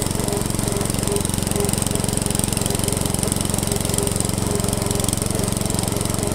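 Montgomery-Ward garden tractor's small engine running steadily at an even speed, with a fast, regular firing beat.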